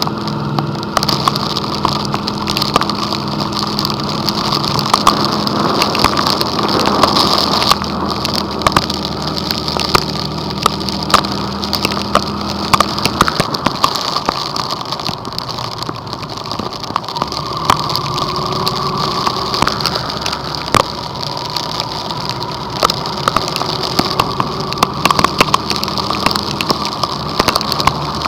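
Heavy storm rain pelting the vehicle as a dense, steady patter of drops over the steady hum of its running engine; one low engine tone drops away about halfway through.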